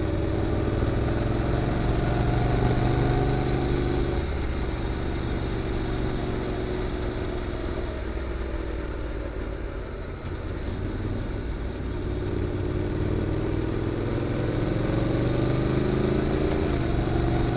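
Honda NC750X's parallel-twin engine through an aftermarket GPR muffler, heard while riding: steady under power for the first few seconds, easing off and quieter around the middle, then pulling and building again from about twelve seconds in.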